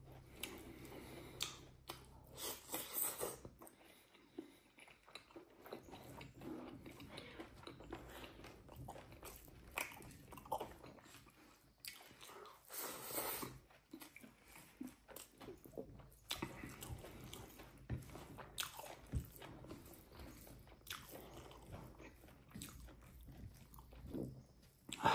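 A man eating fried pork with rice, chewing and biting close to the microphone, with irregular crunches and mouth noises.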